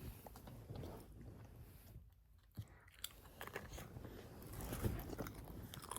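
Faint crunching and chewing as a person eats a snack, with scattered small crackles and clicks and a brief quiet pause partway through.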